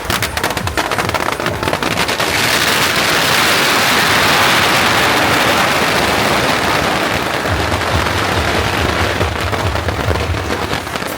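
Firecrackers going off in a rapid crackling barrage. The bangs come so fast in the middle that they run together into one continuous crackle, then thin out again. A music beat plays underneath.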